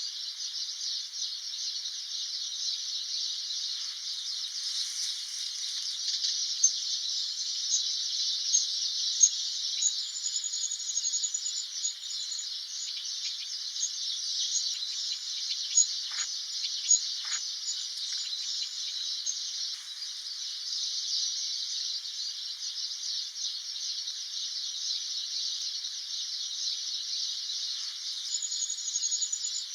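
Steady shrill chorus of insects, with a few short, high bird notes above it, including a quick run of notes about ten seconds in and again near the end.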